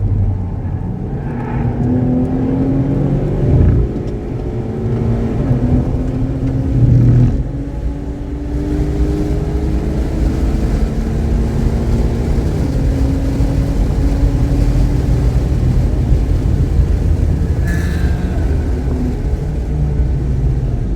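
Car engine pulling hard on a race track, its pitch climbing slowly over several seconds at a time with a few brief breaks, and two short low thumps near the start. The engine runs cleanly without misfiring.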